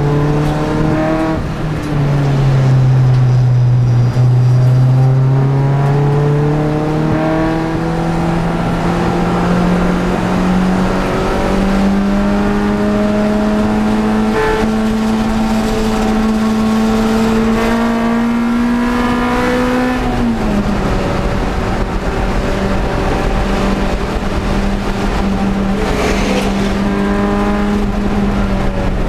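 1995 Honda Prelude's H22 2.2-litre four-cylinder engine running hard at racing pace. Its pitch dips briefly near the start, climbs slowly and steadily for a long pull, then drops sharply about two-thirds of the way in as the driver lifts, and holds steady to the end.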